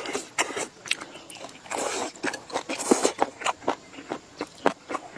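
A person eating close to the microphone: irregular bites and chewing with short crunches and mouth clicks, the food plausibly being cured pork (laroupork).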